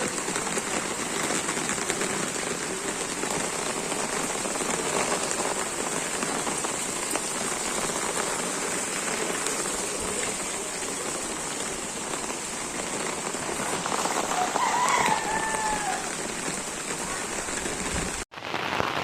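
Heavy rain pouring down steadily, a dense even hiss of drops on surfaces and running water. The sound cuts out for a moment near the end.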